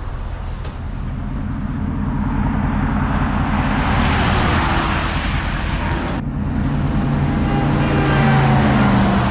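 Car driving on the highway: steady engine and road rumble with a swell of tyre and wind noise. About six seconds in the sound changes abruptly, and a pitched engine drone rises slightly toward the end.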